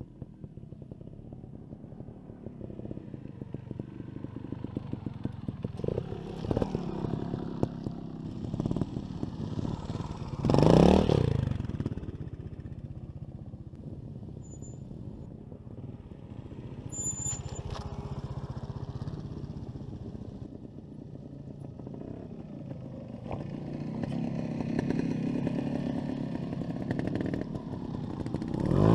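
Trials motorcycle engine idling and blipping. It revs sharply up and back down about ten seconds in, and again near the end as the bike passes close.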